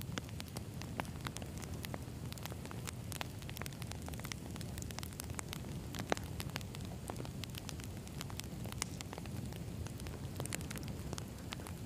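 Campfire of burning wood logs: a steady low rumble of flames with frequent irregular crackles and pops, one louder snap about six seconds in.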